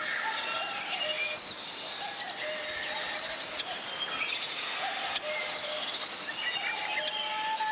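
Mountain valley stream flowing steadily, with birds chirping and calling over it.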